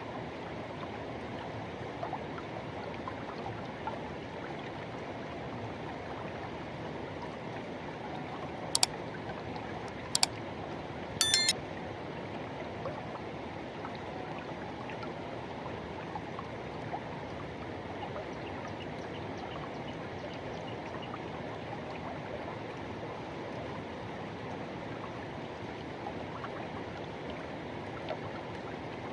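Forest river rushing steadily over stones, an even, unbroken water noise. About nine to twelve seconds in come three brief sharp clicks, the last a short rattle, louder than the water.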